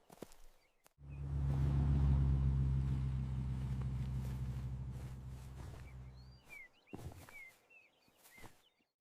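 A low, steady rumbling hum starts about a second in, runs for about five seconds and fades out, followed by a few short, high, falling chirps.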